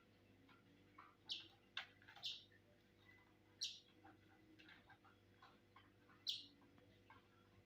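Fischer's lovebird giving short, sharp chirps, about five of them spaced irregularly, with faint small clicks in between.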